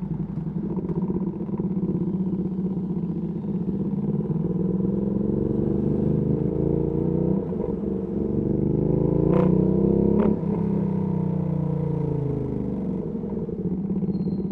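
Ducati Panigale V2S V-twin through a Termignoni exhaust, ridden in traffic: the revs climb, dip briefly at a gear change, climb again, then fall away as the rider rolls off. Two sharp cracks come near the peak, a little under a second apart.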